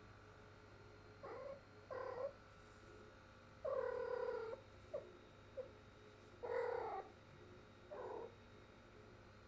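Domestic cat in heat calling: a string of about seven short, low meows. The longest lasts nearly a second about four seconds in, and two quick chirps come just after it. This repeated calling is typical of a female cat in estrus.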